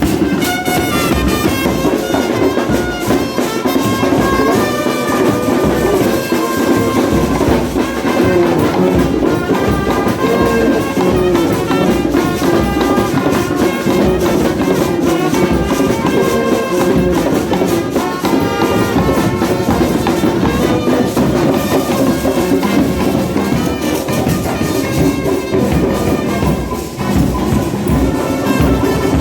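Brass band music: horns playing a melody over drums and other percussion.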